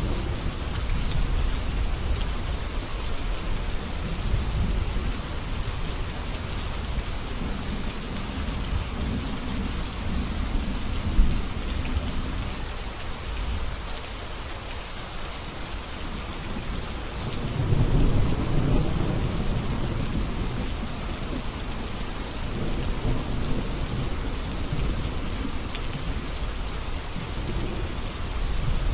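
Steady rain falling, with thunder rumbling low under it; a louder roll of thunder builds about two-thirds of the way through. A single brief crack stands out about eleven seconds in.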